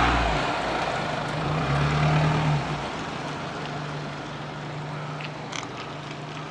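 A train running on the line: a deep rumble and a steady low hum, loud at first, easing off to a quieter steady hum from about three seconds in, with a few faint clicks later on.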